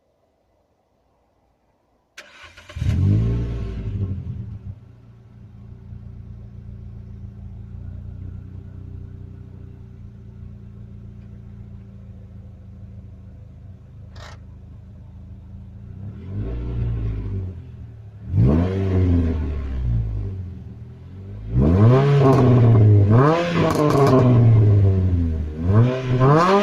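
A Renault Clio RS 200's four-cylinder engine is started about two seconds in, catching with a short rev flare before settling to a steady idle. Later it is blipped twice, and near the end it is revved repeatedly, the pitch rising and falling with each stab of the throttle.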